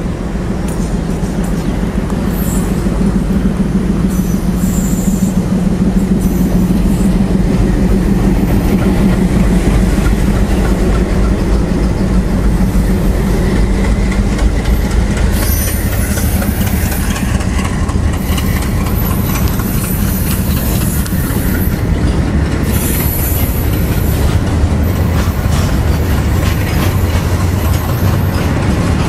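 A train passing at speed on Indian Railways track: a steady heavy rumble of wheels on rail with clickety-clack over the rail joints, building over the first few seconds. Brief high squeals from the wheels come about halfway through and again a few seconds later.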